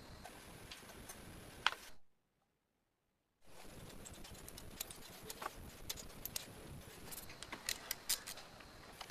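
Scattered light clicks and taps, like small parts being handled at a workbench, over a faint hiss; the sound cuts out completely for about a second and a half, about two seconds in, then the clicking resumes, thickest near the end.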